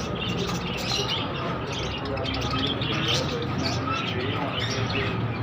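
Many small birds chirping and tweeting at once, with short calls overlapping continuously over a low steady background murmur.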